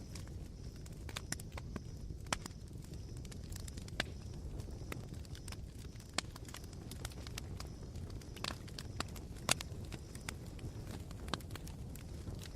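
Campfire embers crackling, with irregular sharp pops and snaps, a few louder than the rest, over a low steady rumble.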